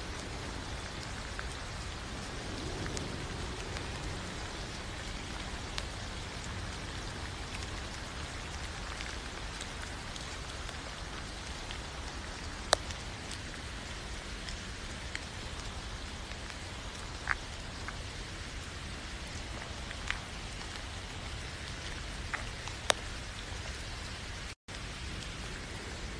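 Steady rain falling: an even hiss with scattered sharp ticks, the loudest coming in the second half. The sound drops out for an instant near the end.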